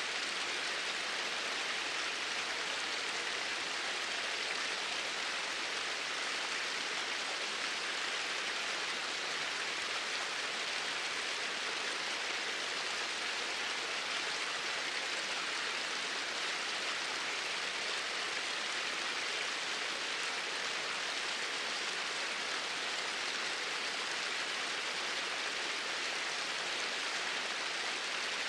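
Flowing water, a steady even rush with no breaks or changes in level.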